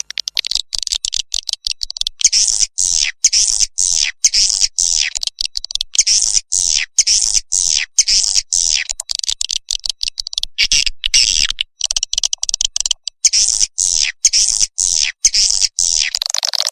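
Swiftlet calling-sound track (edible-nest swiftlet lure call): dense, high twittering of repeated short chirps falling in pitch, about two to three a second, over a fast stream of clicking ticks.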